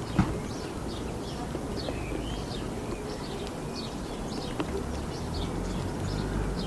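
Small birds chirping over and over, in short high calls, above a low steady rumble of road traffic. There is a sharp knock just after the start.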